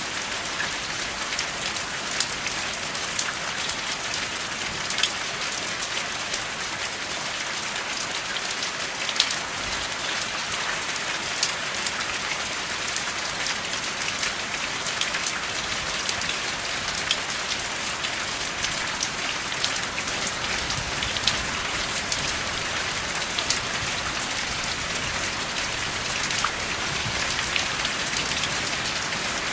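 Steady rainfall: an even hiss with many separate drop impacts ticking through it, and no thunder.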